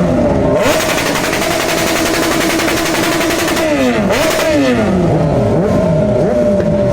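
Motorcycle engines running at a meet, steady with one rev blip about four seconds in whose pitch falls quickly back toward idle.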